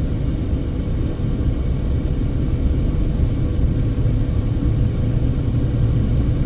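Car driving at road speed: a steady low rumble of tyres and engine with no distinct events.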